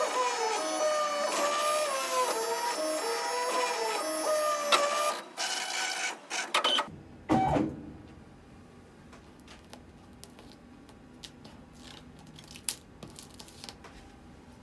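Pellet-extrusion 3D printer running, its stepper motors whining at shifting pitches as the print head moves. This stops after about seven seconds with a short falling sweep. It is followed by a quiet stretch with a few faint ticks.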